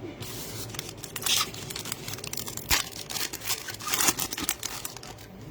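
Plastic wrapper of a trading card pack being torn open and crinkled, with a run of sharp crackles; the loudest come about a second in, near the middle and about four seconds in.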